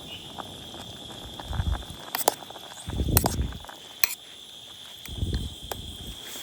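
A steady high-pitched tone throughout, with several sharp clicks and three dull low thumps spaced a second or two apart.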